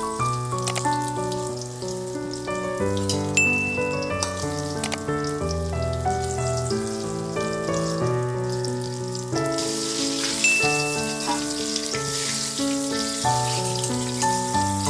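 Banana pieces frying in hot oil, a steady crackling sizzle that grows louder about ten seconds in, under background music.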